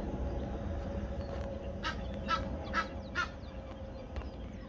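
A bird calling four times in quick succession, short calls a bit under half a second apart.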